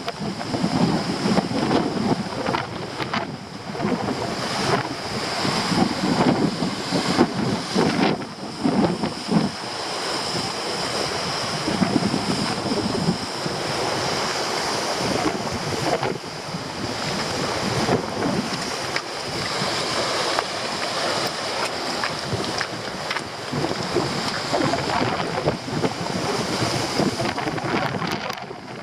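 Storm surf on the sea, with very strong wind buffeting the microphone in gusts.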